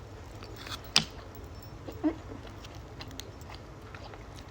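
Close-up mouth sounds of someone chewing and biting steak. A sharp click comes about a second in and another about two seconds in.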